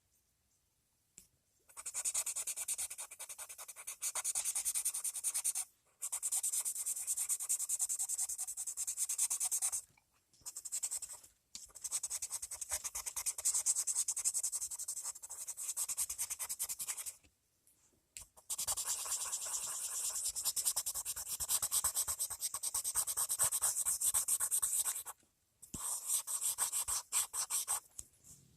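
Green colored pencil shading on paper: long stretches of rapid back-and-forth scratching, broken by short pauses.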